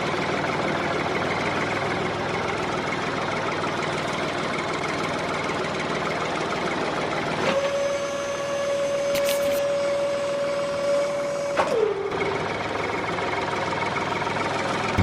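Small electric motors of a homemade miniature flour mill model running with a steady, rattling mechanical buzz. About halfway through, a steady whine joins for about four seconds, then drops in pitch as it stops.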